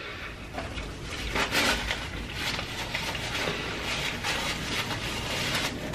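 Chewing a mouthful of slider burger, with heavy breathing and small irregular mouth clicks.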